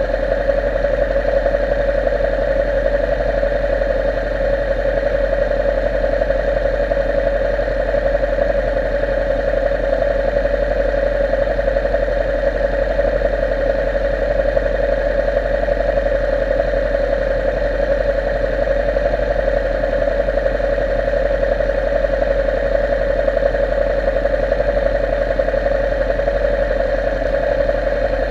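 Motorcycle engine running at a steady, unchanging pitch for the whole stretch, with no gear changes or revving.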